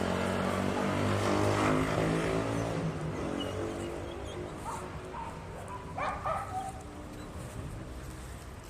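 A dog giving several short yelps and whimpers, the loudest about six seconds in. Over the first few seconds a steady low hum fades out beneath it.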